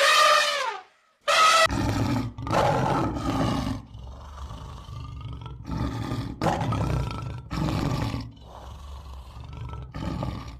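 Animal calls: a short cry that falls in pitch, then a run of loud, deep, rumbling calls one after another with short pauses between.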